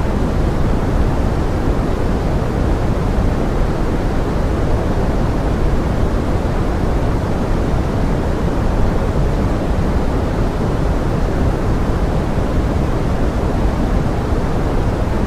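Steady pink noise blended with forest rain: an even, unchanging hiss, strongest in the low end.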